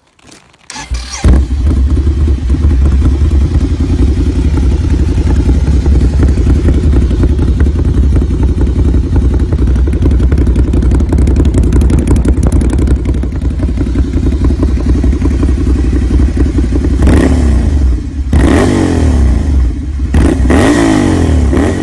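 Ducati Scrambler 800's air-cooled L-twin starting through an Arrow titanium exhaust, catching about a second in and idling with a deep, lumpy pulse. Near the end it is revved three times in short blips, each rising and falling in pitch.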